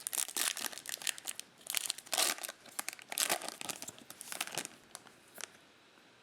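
Plastic trading-card pack wrappers crinkling and tearing as football card packs are handled and opened, in a quick run of rustles that dies away about five and a half seconds in.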